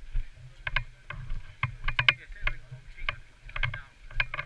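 Low thuds about twice a second, typical of someone walking with a head-mounted camera, under many sharp, irregular clicks and snaps.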